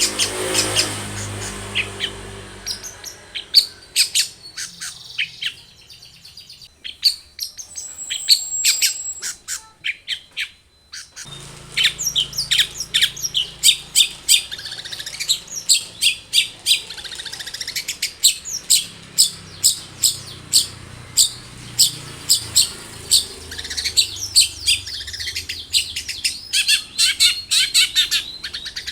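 Long-tailed shrike (cendet) singing vigorously: a fast, chattering run of sharp, high chirps and calls, thinning out for a few seconds and then starting again abruptly and densely about eleven seconds in.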